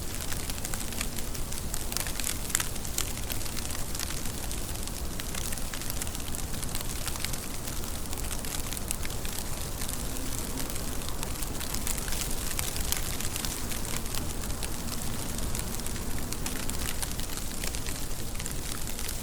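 Steady rain falling, with a dense crackling patter of drops striking a hard surface.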